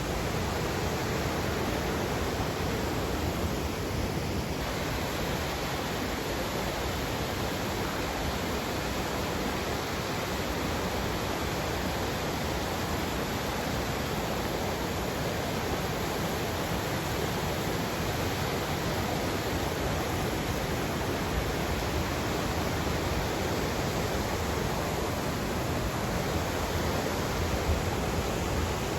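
River water rushing, a steady, even noise with no breaks.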